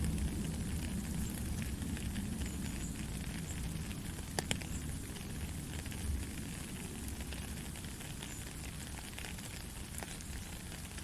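Steady gentle rain: an even hiss of falling rain over a low rumble, with scattered drop ticks and one sharper tap about four seconds in.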